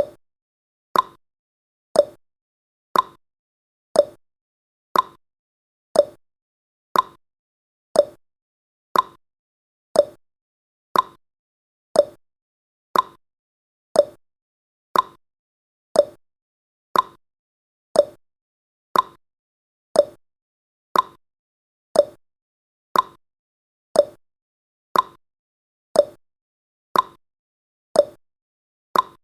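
Clock-tick sound effect of a countdown timer, one short tick every second, evenly spaced, alternating slightly between a higher tick and a lower tock.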